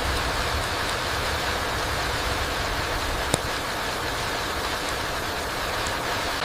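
Steady rain falling through trees onto the forest floor, an even hiss with a low rumble beneath it. A single sharp tick stands out a little over three seconds in.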